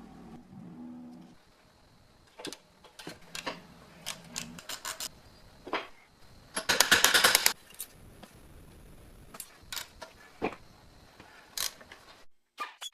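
Workshop handling sounds: a scatter of sharp clicks and knocks, with a brief, loud burst of rapid rattling clicks about seven seconds in.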